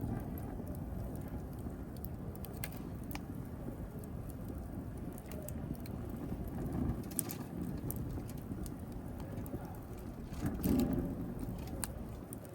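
Wood fire burning with a steady low rumble of flame and scattered sharp crackles and pops, a few of them stronger near the middle and end, with a brief louder surge of flame about ten seconds in.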